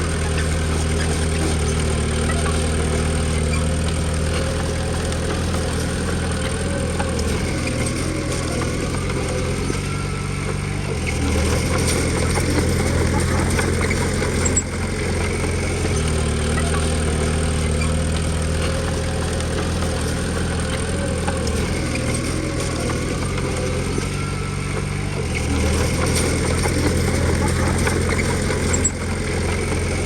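Komatsu D20P bulldozer's diesel engine running steadily, its low note changing pitch a few times.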